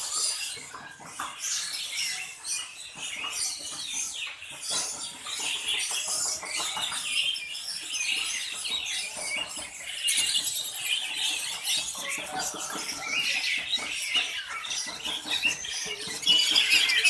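Many small caged birds chirping and twittering at once, a dense, continuous chorus of short high chirps that grows busier about two-thirds of the way through.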